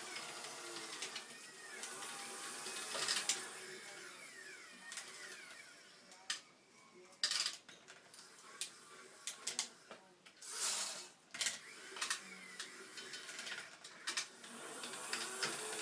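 Small electric motors and gearboxes of a model EKG-5 excavator whining, the pitch sliding up and down as they change speed, with scattered clicks and a few short noisy bursts.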